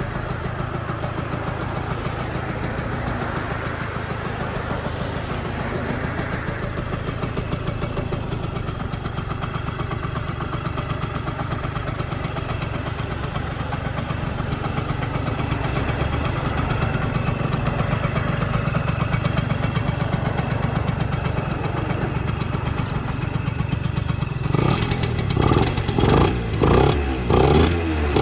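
Yamaha RZ50's 49 cc two-stroke single-cylinder engine idling steadily through its stock exhaust. Near the end the throttle is blipped several times in quick succession, each rev rising and falling back in about a second.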